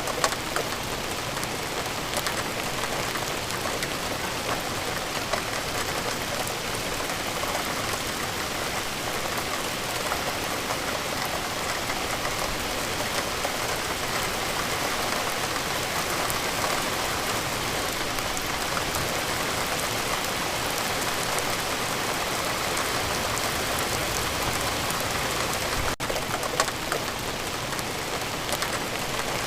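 Steady rainfall, a dense even hiss of drops with scattered individual drip ticks on a surface.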